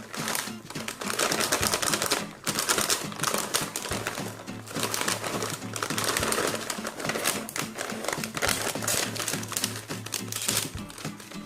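Fast, dense clicking and tapping over background music.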